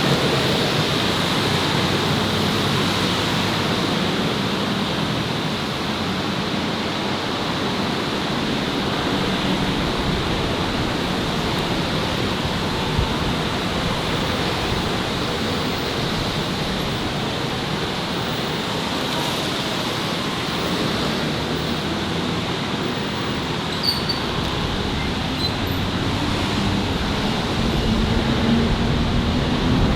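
Steady city street traffic noise, an even wash of passing cars and scooters, with one vehicle's engine rising in pitch near the end.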